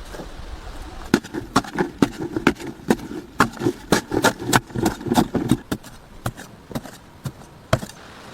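A rapid series of sharp knocks, about three a second, thinning to a few scattered knocks near the end.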